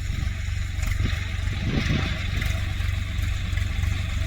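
Tractor diesel engine running steadily with an even low throb.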